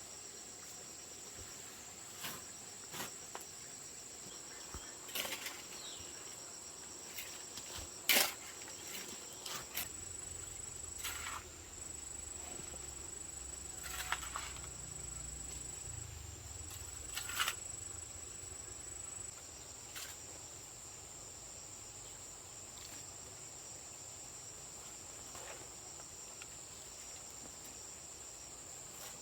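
Steady high-pitched chorus of insects, crickets by the sound, running throughout. Scattered sharp knocks sound over it, the loudest about eight seconds in.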